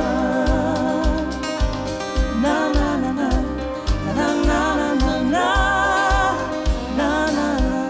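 Live bluegrass band playing a song, with wavering melody lines over a steady bass beat about twice a second.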